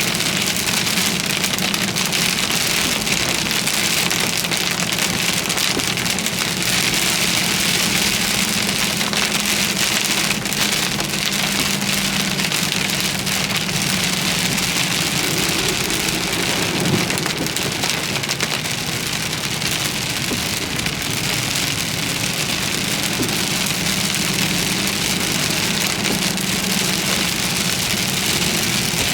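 Heavy rain pelting a car's roof and windshield, heard from inside the cabin as a steady dense hiss, with a low steady hum underneath.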